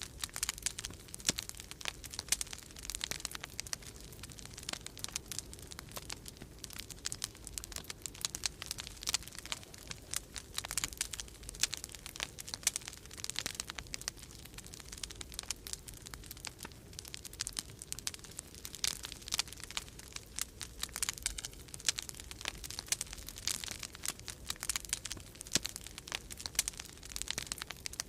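Wood fire crackling in a fireplace, with many irregular sharp pops and snaps throughout. Underneath runs a steady low rumble of winter storm wind.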